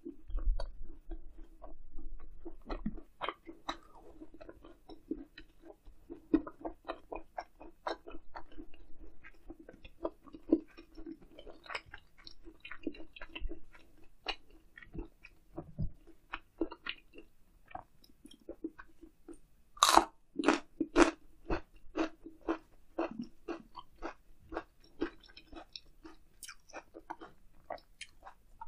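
Close-up chewing and biting of grilled eel wrapped in leafy ssam, with crisp crunches and wet mouth clicks; the loudest crunching comes in a cluster about twenty seconds in.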